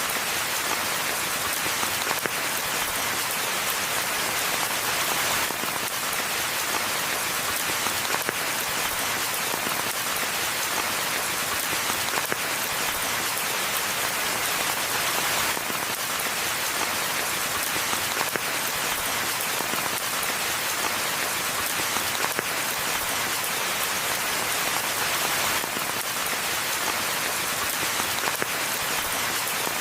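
Steady rainfall: an even, bright hiss of countless drops, with no thunder or other sounds standing out.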